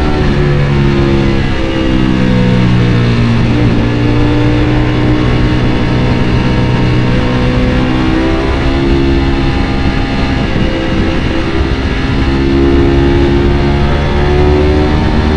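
Ducati Panigale V4 motorcycle's V4 engine under way on the road, its pitch holding for stretches and then rising and falling with throttle and gear changes.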